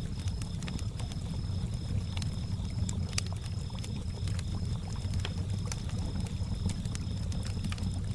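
Campfire crackling with scattered sharp pops, over the low, steady wash of lake water lapping, with crickets chirping in a high, evenly pulsing trill.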